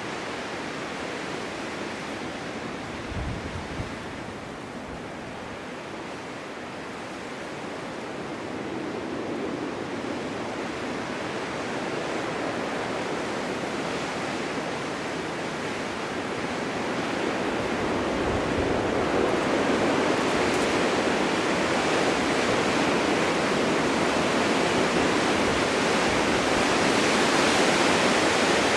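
Winter wind blowing across an open snowy meadow: a steady, even rush that swells stronger from about a third of the way in and stays strong to the end. A brief low thud comes about three seconds in.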